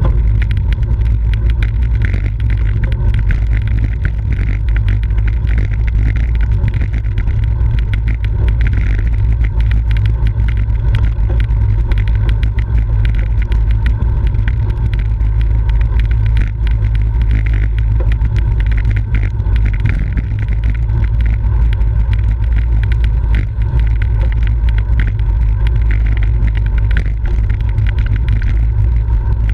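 Steady low rumble of wind buffeting the microphone of a camera riding along in a bicycle road race, with road and tyre noise and brief crackles.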